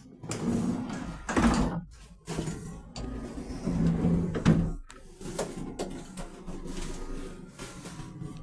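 A sliding door inside a Thameslink Class 700 train carriage being worked, with several sharp knocks and handling noises over the train's low rumble.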